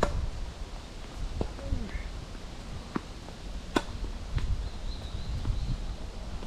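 Tennis ball struck by rackets and bouncing on a hard court: sharp pops a few seconds apart, the loudest at the start and near the middle. Wind rumbles on the microphone throughout.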